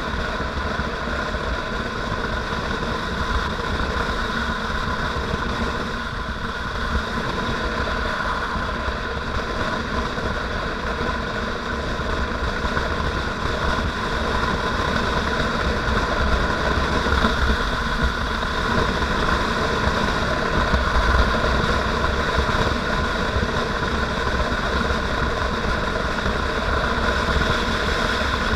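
Motorcycle engine running steadily while riding, with a low rumble underneath. It gets slightly louder about halfway through.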